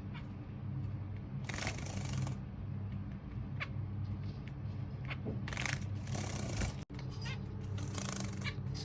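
Zebra finches bathing, splashing and fluttering in water in three short bursts, with a few brief sharp chirps between them.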